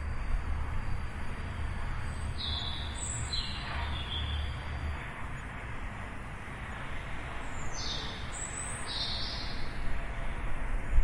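Small birds chirping in short calls, a few at a time: a pair of notes about two and a half to four seconds in and another pair around eight to nine seconds in. They sit over a steady low rumble of distant traffic that fades somewhat about halfway through.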